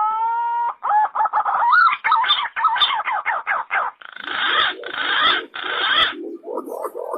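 Wild pigeon calls of the kind used to lure imperial pigeons and green pigeons. A long whistle rises in pitch, then comes a fast run of varied whistled notes and a few seconds of harsh rasping notes. Near the end, a quick series of short low coos follows.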